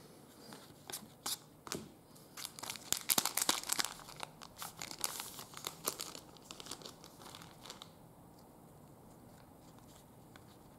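Plastic trading-card pack wrapper being handled and torn open: a run of sharp crinkles and crackles, thickest a few seconds in, dying away about three-quarters of the way through.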